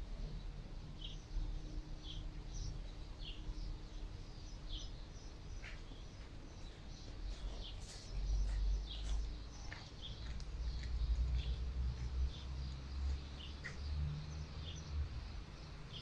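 Small birds chirping: short high chirps about once a second, with other brief calls mixed in, over a low rumble of wind on the microphone that grows stronger in the second half.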